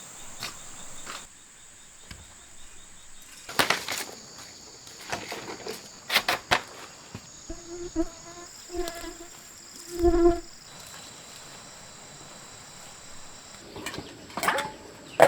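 Steady high-pitched insect drone, broken by scattered sharp knocks and a few short pitched calls a little past the middle.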